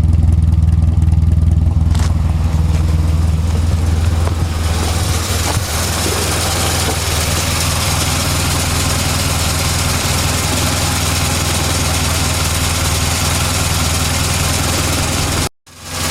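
1970 Morris Minor's four-cylinder A-series engine idling steadily with a low, even hum. A few seconds in, a higher rushing hiss rises over the idle and stays. Near the end the sound cuts out for a moment, then returns.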